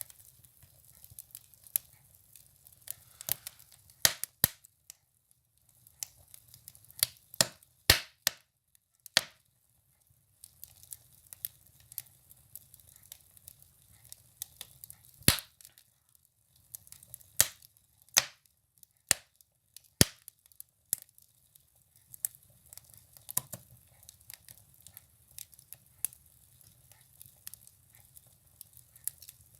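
Firewood burning in a stove, crackling with irregular sharp pops, the loudest about eight and fifteen seconds in, over a faint low hum.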